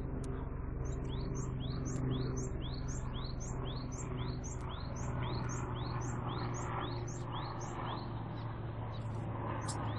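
A small bird calling the same short rising chirp over and over, about two a second, with a steady low hum underneath.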